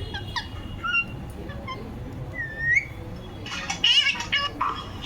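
Ringneck parrot calling: scattered short, sharp chirps and a rising whistle about halfway through, then a rapid run of squawks near the end.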